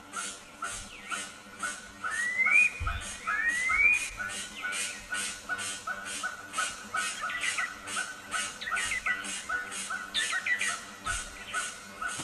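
A flock of small birds chirping and calling together: a fast, steady run of short high chirps at about four a second, with a few rising whistled calls about two to four seconds in.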